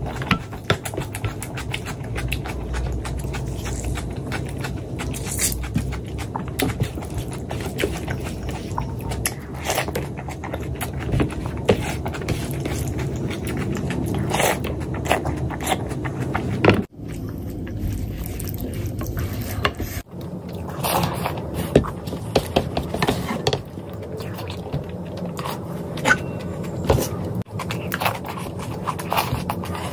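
Close-miked eating sounds from mouthfuls of rice and fatty pork curry eaten by hand: wet chewing, lip smacks and sticky squelches, with many short clicks. The sound breaks off sharply twice near the middle.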